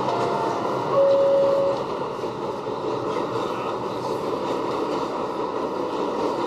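New York City subway train running, a steady rumble of wheels on track, with a short steady high tone about a second in.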